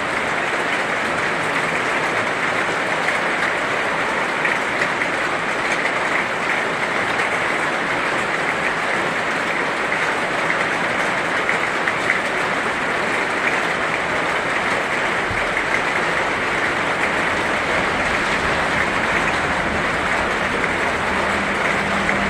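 Heavy rain falling steadily, a dense even hiss of many drops with no let-up; a faint low rumble joins in about two-thirds of the way through.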